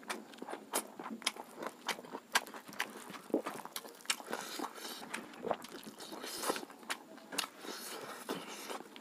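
Close-up eating sounds: wet chewing and lip smacks with irregular small clicks and crunches as a mouthful of sukha roti, rice and pork is eaten by hand.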